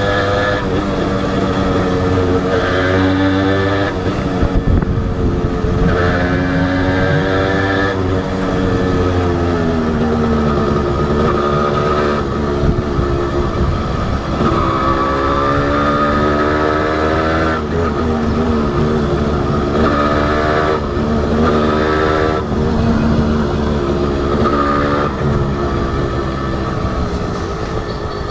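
Honda H100S two-stroke single-cylinder motorcycle engine under way, its pitch rising and falling again and again with the throttle and gear changes.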